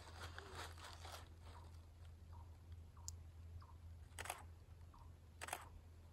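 Near silence, with two soft, brief crunches about four and five and a half seconds in.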